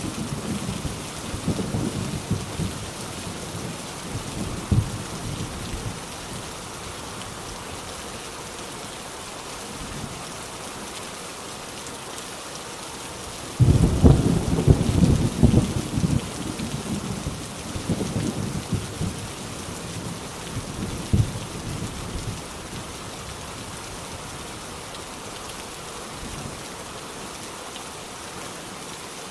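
Heavy rain falling steadily on an old rusty tin roof, with thunder: a rumble dying away at the start, then a sudden loud clap about halfway through that rolls on for several seconds before fading.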